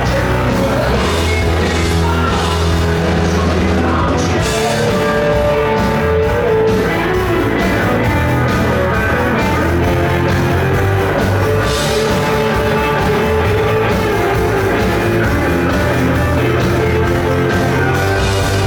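Rock band playing live: electric guitars over bass and a drum kit, loud and steady.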